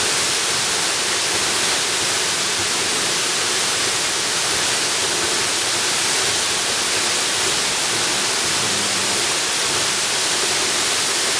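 Waterfall: a steady, unbroken rush of falling water, even in loudness throughout.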